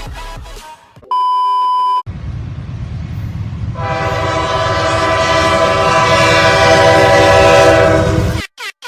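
A one-second beep tone, then a train rumbling. About four seconds in, a locomotive's multi-chime air horn starts blowing one long chord, growing louder until it cuts off abruptly.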